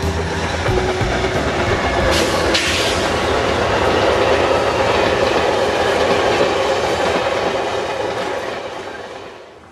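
A passing train: a steady rumble and clatter of wheels on the rails, with a brief sharper high sound about two seconds in, fading away over the last couple of seconds.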